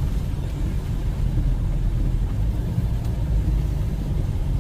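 Strong wind buffeting the microphone: a loud, choppy low rumble with no pitch to it.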